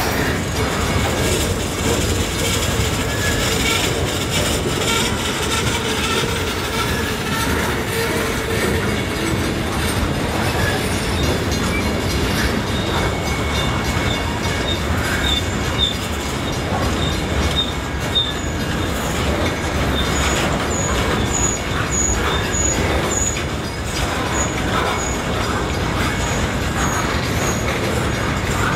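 Freight train of boxcars rolling past at close range: a steady rumble and clatter of steel wheels on rail, with no engine or horn heard.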